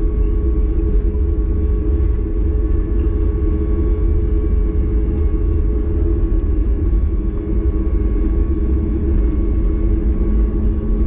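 Boeing 737 MAX 8's CFM LEAP-1B turbofan engines heard from inside the cabin: a steady deep rumble with an even hum.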